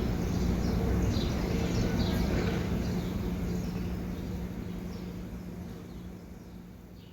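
Outdoor ambience with small birds chirping in short falling calls over a low steady hum, fading out gradually.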